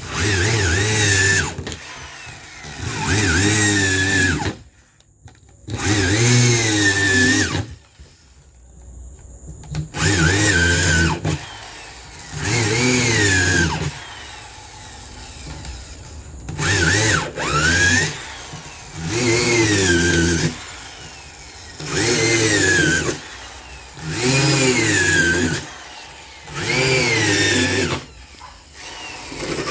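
Electric drill run in about ten short bursts of a second or two each, every few seconds, its motor pitch rising and dipping within each burst as it bores into a freezer's shell.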